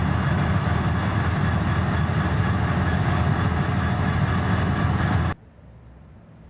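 A train running on the rails, a loud steady noise that cuts off suddenly about five seconds in, leaving only a faint background.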